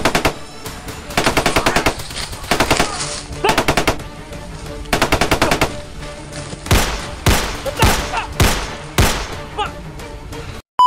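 Gunfire: several short bursts of rapid automatic fire, then five single loud shots about half a second apart.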